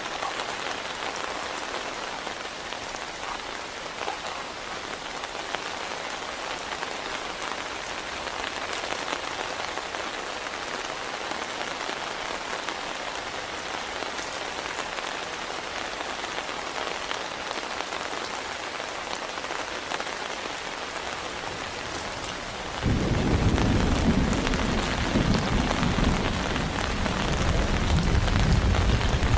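Heavy rain falling steadily, with individual drops ticking. Near the end, a loud, deep rumble of thunder comes in suddenly and keeps rolling.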